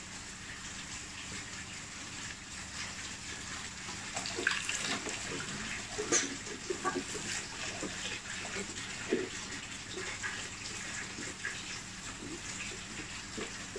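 Water splashing and sloshing in a basin as small clear plastic betta tanks are washed and scrubbed with a sponge in soapy water, with scattered light clicks and knocks from the plastic tanks.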